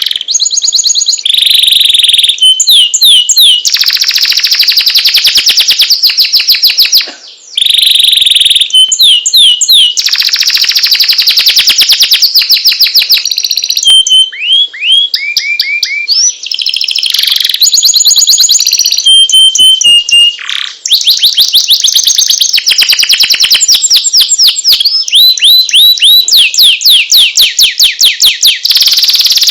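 Domestic canary singing a long, loud, continuous song: fast trills of rapidly repeated notes alternating with sweeping whistled notes, changing phrase every second or two, with brief breaks about 7 and 20 seconds in.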